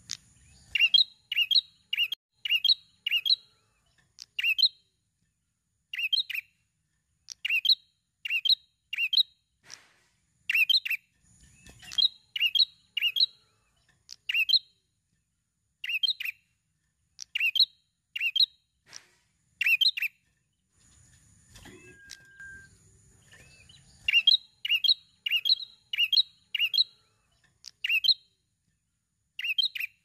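Prenjak, a small warbler-like songbird, calling loudly and vigorously: quick runs of three to five sharp, high chirps, repeated every second or two, with a pause of about three seconds past the two-thirds mark.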